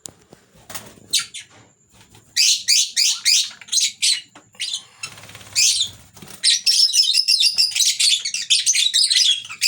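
Lovebirds chirping in short, high notes: a few scattered calls at first, then quick runs of chirps, turning into continuous chattering about two thirds of the way in.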